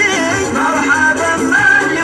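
Arabic song: a male voice singing a drawn-out, ornamented line that wavers up and down in pitch.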